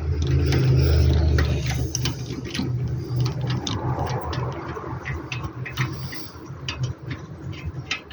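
Irregular metallic clicks and light knocks of hand tools on car parts, most likely a ratchet wrench turning out bolts, over a low rumble that is heaviest in the first two seconds.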